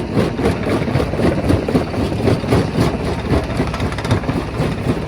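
Quarry rock crusher running: a heavy machine drone with a dense, irregular clatter of knocks as stone is crushed.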